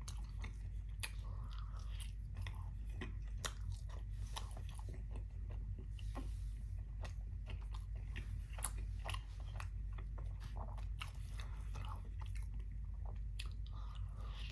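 A person chewing and biting food close to the microphone, with many short, sharp mouth clicks over a steady low hum.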